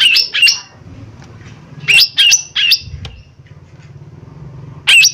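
A cucak ijo mini, a small green leafbird, calling loudly in quick groups of three sharp notes, each note sweeping down in pitch, with a fresh group about every three seconds. A faint steady low hum lies under the calls.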